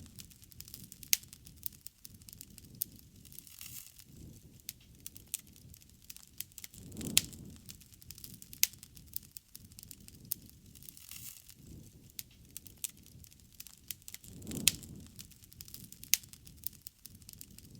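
Wood bonfire crackling, with frequent sharp pops and snaps at irregular intervals. A low rumbling swell rises and fades about seven seconds in and again about fifteen seconds in.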